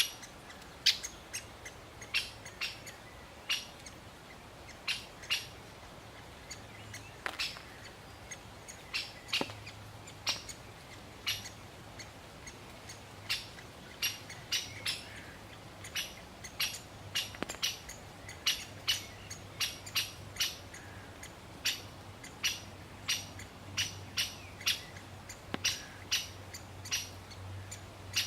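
Great spotted woodpecker calling: a long run of short, sharp high single notes, irregularly spaced at about one to two a second and coming more often in the second half.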